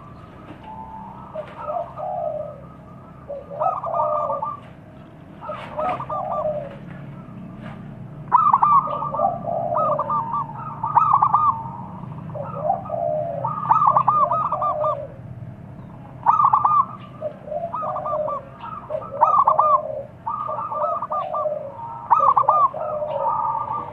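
Zebra doves (perkutut) cooing: repeated phrases of rapid rolling coos from more than one bird, higher and lower voices overlapping and answering each other.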